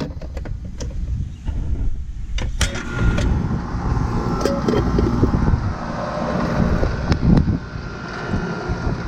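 Outdoor condensing unit of an old central air conditioner starting up after its disconnect is switched on: a few clicks, then about two and a half seconds in the compressor and condenser fan come on and run with a steady low hum and a faint steady whine.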